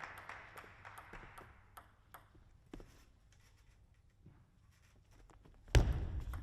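Hall applause dying away, then a few sharp ticks of a celluloid-type table tennis ball bouncing. Near the end, a sudden loud thump with a burst of noise.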